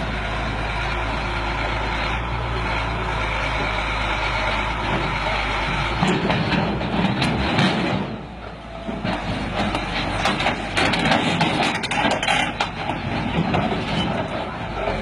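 Heavy truck engine running steadily. About six seconds in, the sound changes abruptly to a rougher, noisier stretch with scattered knocks and clatter.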